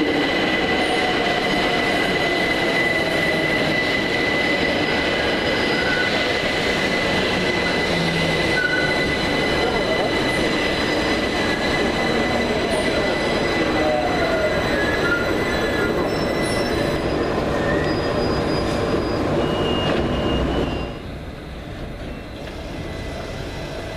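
London Overground Class 378 electric train running on the rails: a dense steady rumble with a high steady whine and short squeaks, which drops suddenly about 21 seconds in.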